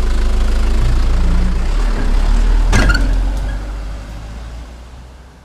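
Heavy truck engine running with a deep, steady rumble, with one short sharp burst of noise about three seconds in, then fading out near the end.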